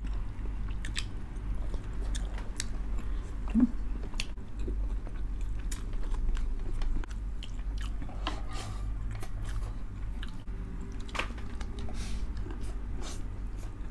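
Close-miked mukbang eating sounds: two people chewing and biting mouthfuls of pork blood stew, rice and green chili peppers, with many short, irregular wet clicks and crunches.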